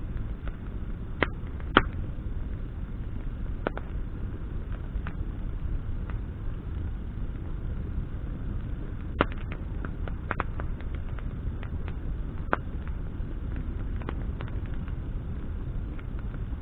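Bonfire of burning branches crackling: scattered sharp pops over a steady low rumble, the loudest pop about two seconds in and a quick run of pops a little past the middle.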